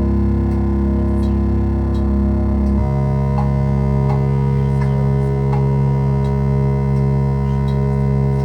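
Modular synthesizer music: a sustained low drone chord that shifts to a new set of pitches about three seconds in, with sparse short high blips over it.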